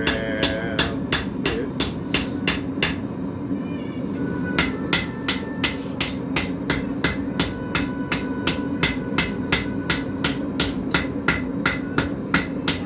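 Blacksmith's hammer striking on an anvil in a steady rhythm, about three blows a second, with the anvil ringing after the blows.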